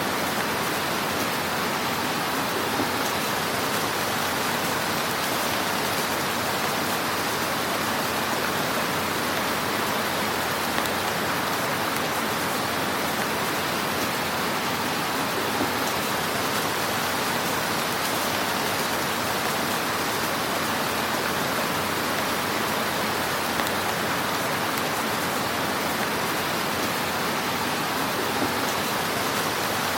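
Wood fire crackling in a fireplace: a steady hiss with scattered small pops.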